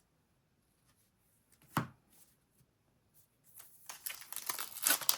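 Foil trading-card booster pack wrapper being torn open and crinkled. It starts about three and a half seconds in and gets louder, after a single soft knock near two seconds.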